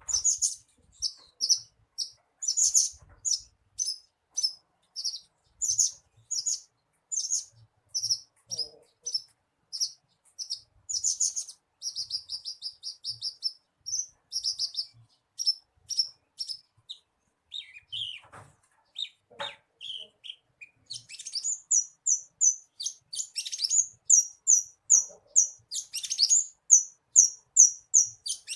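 Javan bushlark (branjangan) singing: a long, unbroken string of short high chirps, with a fast trill midway, a few falling notes past the middle, and evenly repeated notes near the end.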